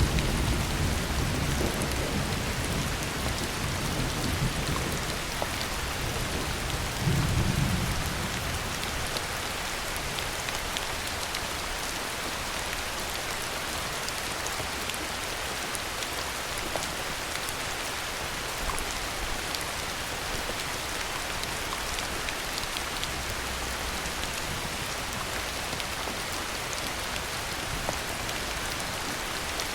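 Heavy rain falling steadily, with low thunder rumbling at the start that dies away over the first few seconds and a brief low rumble about seven seconds in.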